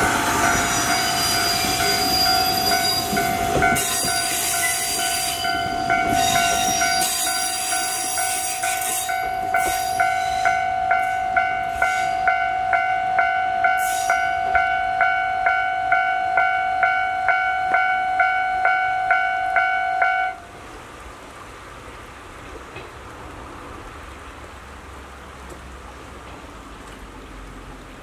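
Okuizumo Orochi trolley train, hauled by a DE10 diesel locomotive, passing close and pulling away, its wheels squealing and its running noise fading over the first seven seconds or so. Through this a steady ringing tone pulses about twice a second and cuts off suddenly about twenty seconds in, leaving a faint steady hiss.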